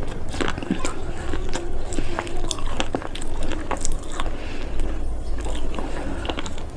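Broken slate pieces being crushed, giving a run of sharp, irregular crunches and cracks.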